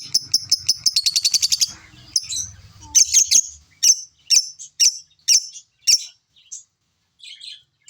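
Pet bird chirping: a fast run of high chirps about a second in, then single sharp chirps about twice a second, thinning out toward the end.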